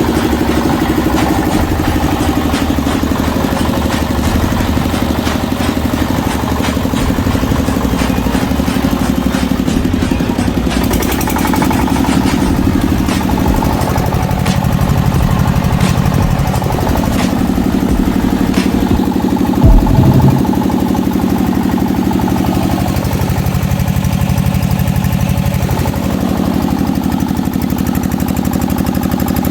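A 7.5 kVA water-cooled single-phase diesel generator engine running steadily. Twice its note sags and climbs back, and there is a single loud knock about two-thirds of the way through.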